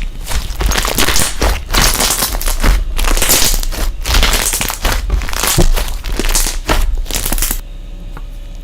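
Slime being squeezed and pressed by hand, giving a dense run of loud crackling and crunching noises that stops suddenly near the end.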